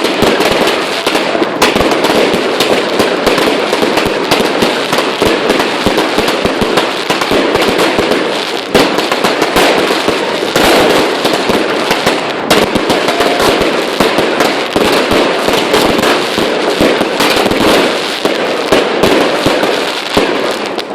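Fireworks going off in a dense, continuous volley: rapid bangs and crackling overlapping without a break, thinning out just before the end.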